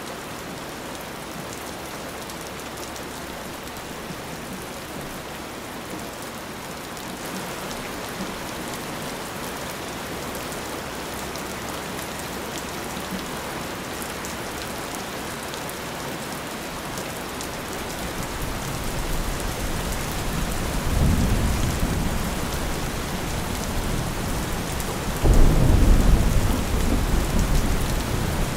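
Steady rain falling, with low rolling thunder building in the second half: a deep rumble swells about two-thirds through and a louder clap of rumbling thunder breaks in near the end.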